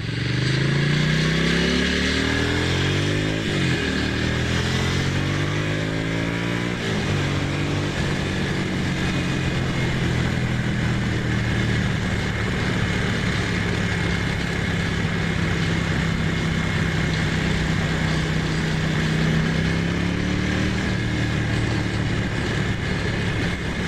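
Ducati Monster's L-twin engine pulling hard through two upshifts, its pitch rising and dropping back twice in the first seven seconds. It then runs at a steady cruise, with a steady rush of wind noise over it.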